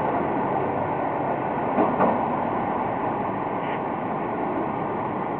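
Fire engine and street traffic running as a steady noise, with a faint steady high tone held throughout.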